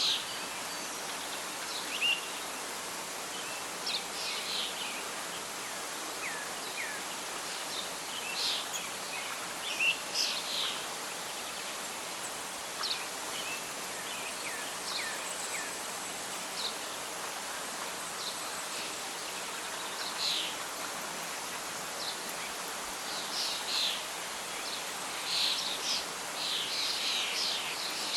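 Birds chirping and calling over a steady hiss of wind through leaves. The chirps come thicker near the end.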